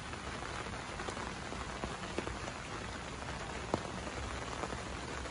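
Steady rain falling on the tent's fabric, heard from inside the tent, with a few sharp ticks standing out from the even hiss.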